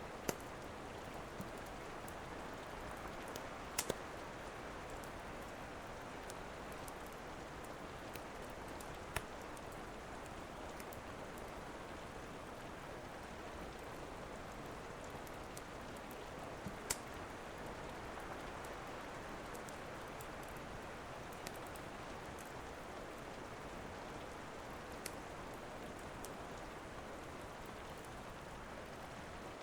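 Steady rain falling, with a few sharp, isolated crackles from a wood fire several seconds apart, two close together about four seconds in.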